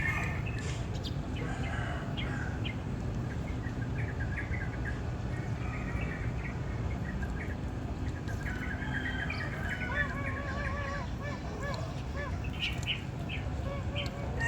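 Birds chirping and calling over a steady low background rumble, with a run of short, repeated warbling notes about ten seconds in.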